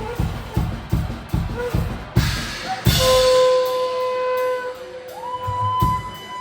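Live band playing an instrumental intro. A steady drum beat of about three hits a second leads into a cymbal swell and crash about three seconds in, followed by long held notes that slide between pitches.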